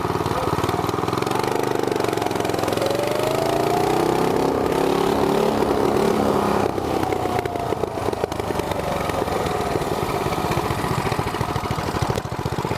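Small go-kart engines, a 212cc single-cylinder among them, run at full throttle off a drag-race launch. Their pitch climbs over the first few seconds, then the steady engine note carries on, a little quieter after about seven seconds.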